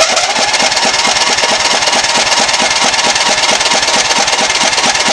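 Electric starter cranking a 16 hp overhead-valve Briggs & Stratton lawn tractor engine in a steady, even rhythm for about five seconds without it catching, then stopping. The engine cranks but won't start even though it has spark.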